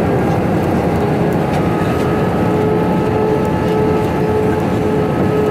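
Steady roar of engines and rushing air inside the cabin of an Airbus A321 airliner in flight, with a few faint steady tones over it.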